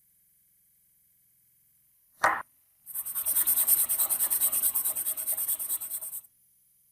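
A single short scrape, then rapid back-and-forth scrubbing on a metal part of a manual meat grinder, about ten strokes a second for some three seconds, stopping suddenly.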